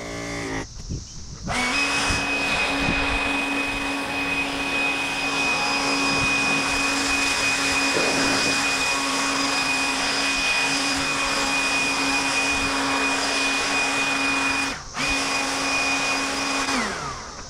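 A small electric motor running with a steady whine over a rushing hiss. It cuts out for a moment about fifteen seconds in, restarts, then winds down with a falling pitch near the end.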